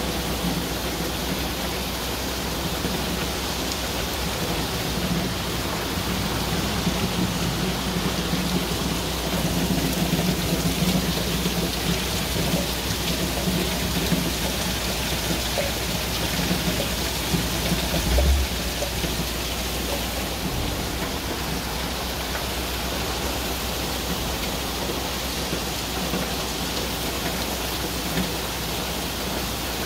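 Torrential tropical downpour: heavy rain pouring steadily and splashing onto flooded ground and rooftops.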